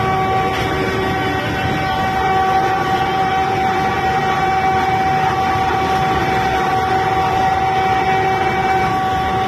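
Vande Bharat electric train running at speed, heard inside the driver's cab: a steady rumble with an unchanging hum over it.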